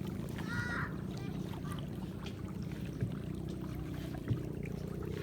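A motorboat's engine runs steadily with a low, even hum. A short high-pitched call sounds about half a second in.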